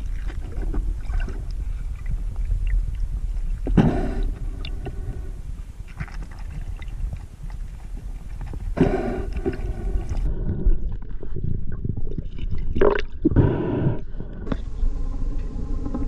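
Muffled water sound from a camera underwater: a steady low rumble with a few louder gurgling bursts, one about four seconds in and a cluster between about nine and fourteen seconds.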